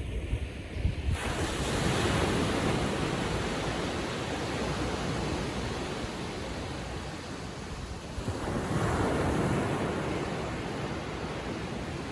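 Small Atlantic waves breaking and washing up the sand on a calm sea: one wave comes in about a second in and another about eight seconds in, each swelling and then fading away. Some wind buffets the microphone near the start.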